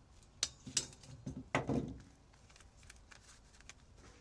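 Cutters snipping through copper coil wire: a few sharp snips, with the loudest clack, briefly ringing, about a second and a half in, then faint light ticks.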